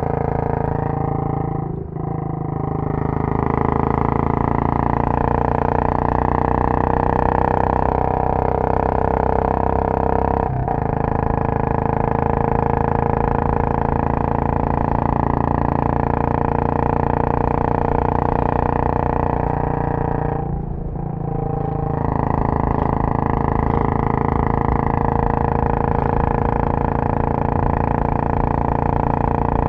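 Royal Enfield Bullet 500's single-cylinder engine under way through a Punjab long bottle silencer, running steadily under throttle. The note drops briefly three times, about two, ten and twenty-one seconds in, as the throttle is rolled off and picked up again.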